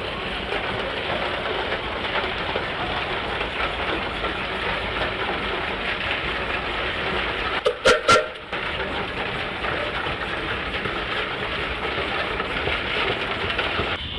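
Antique steam traction engine running with a steady mechanical clatter, with three sharp loud knocks in quick succession about eight seconds in.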